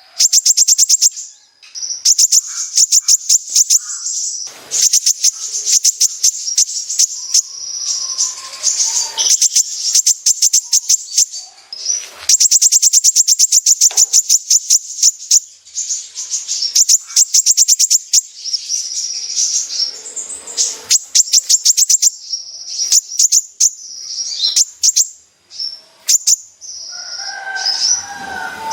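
Sunbird of the kind kept in Indonesia as 'kolibri ninja' singing in full 'besetan': rapid, high-pitched trills of sharp repeated notes in bursts of a few seconds, separated by short gaps.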